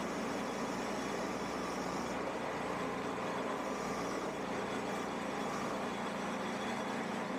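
Shopsmith motor running steadily while a Forstner bit bores into a maple peppermill blank, an even whirring drone with a faint hum.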